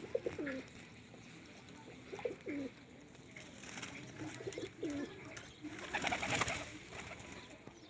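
Pigeon cooing in three short phrases about two seconds apart, each a low looping coo. Near the end there is a louder burst of rustling noise.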